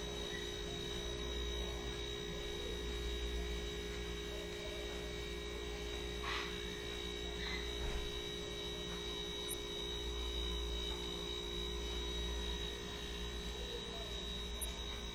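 Steady electrical hum with a faint high whine over it, and a light tick about six seconds in.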